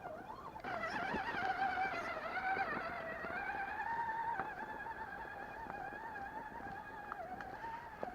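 1/10-scale RC rock crawler's electric motor and gear drivetrain whining as it drives, the pitch wavering up and down with the throttle. The whine gets louder about a second in, and a few faint clicks come later.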